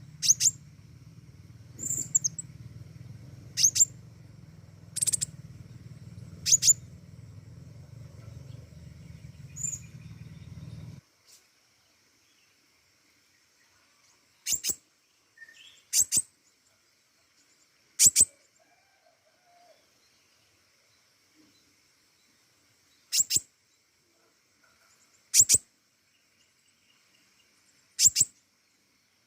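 Pentis raja bird giving short, sharp, high chirps, one every couple of seconds, later more spread out. A low hum underneath cuts off suddenly about eleven seconds in.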